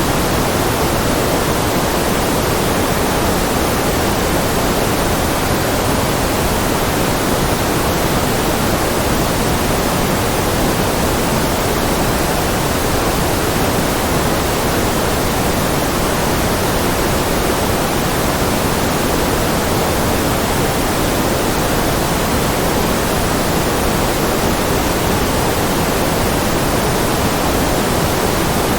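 Steady generated white noise with no change in level, an even hiss across all pitches, a little heavier in the low middle.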